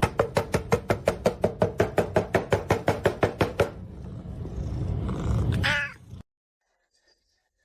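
A cat purring, a steady low rumble, with a quick run of taps about six a second over the first three and a half seconds. Near the end comes a short wavering higher sound, then the sound cuts off suddenly.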